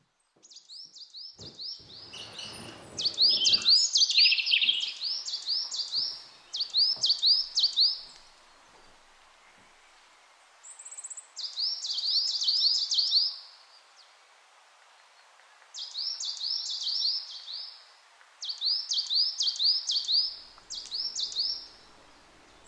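A songbird singing short phrases of rapid, repeated curving chirps, several a second, with pauses of a second or more between phrases. Some low knocks and rumble sound in the first few seconds.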